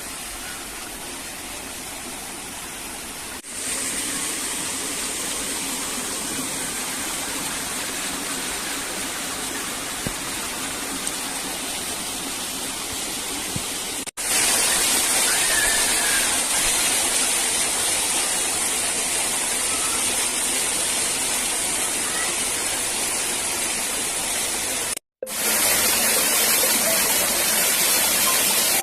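Steady rush of falling, running water. It is broken by abrupt cuts about a few seconds in, about halfway, and near the end, and it becomes louder and brighter after the cuts.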